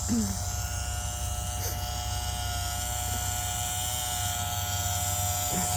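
Small electric pool cover pump running steadily, pumping rain water off the cover with a constant electric hum and buzz.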